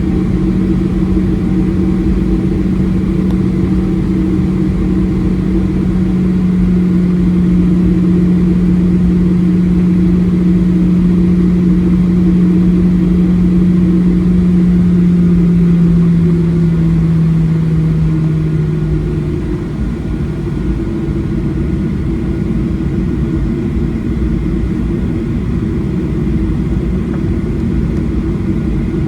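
Boeing 737-800 cabin noise: the steady drone of its CFM56 engines and airflow. A strong low hum drifts slightly lower in pitch and cuts off about two-thirds of the way through, leaving the rumble a little quieter.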